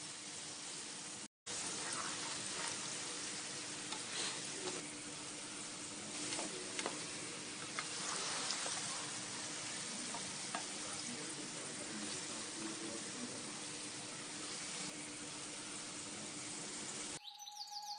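Chicken pieces sizzling in teriyaki sauce in a wok: a steady frying hiss, with occasional light clicks and scrapes of a spatula stirring. Soft music comes in just at the end.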